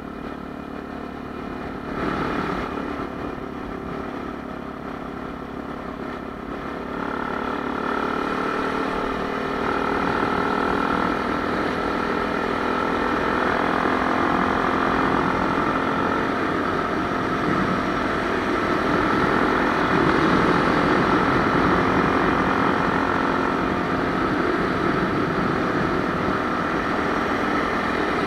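Honda Tornado 250's single-cylinder four-stroke engine running steadily, growing louder about a third of the way in and then holding.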